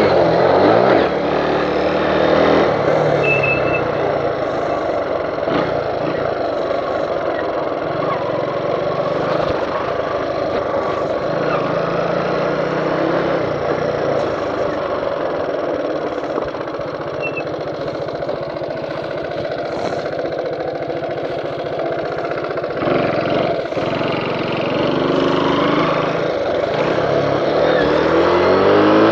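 Kawasaki Max 100 motorcycle engine running, revving up and down at the start and again near the end, with a steadier run in between.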